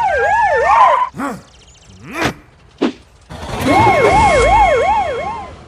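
Cartoon siren sound effect: a fast, warbling up-and-down wail, heard twice, with a few short sliding swoops in between.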